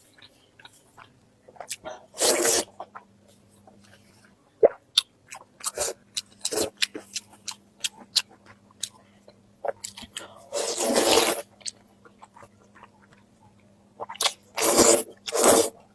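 A person eating close to the microphone: chewing and biting with many sharp mouth clicks and crunches. There are several louder short noisy bursts a couple of seconds in, around the middle, and twice near the end.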